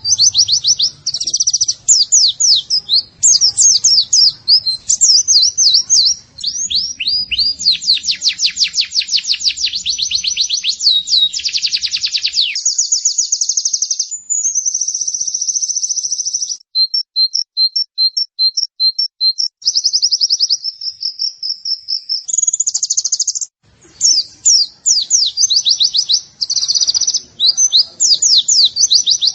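White-eye (pleci) song from a training recording: rapid, high twittering with fast trills and quick rising and falling notes. About two-thirds in comes a run of evenly spaced ticks, and there is a brief break near the end.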